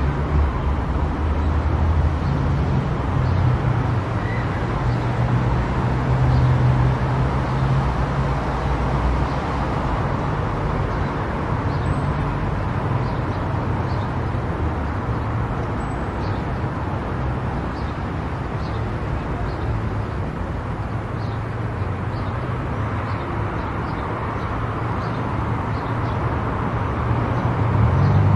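Steady road noise of a car driving at highway speed: tyre and wind rush over a low engine drone. The drone grows louder near the end.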